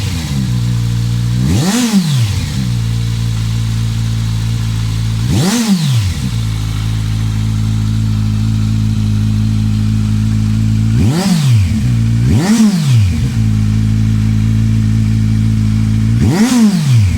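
Kawasaki Z1000 inline-four idling through a Hurric aftermarket exhaust with the dB killer removed, blipped five times: each short rev shoots the pitch up and drops straight back to idle, two of them close together near the middle.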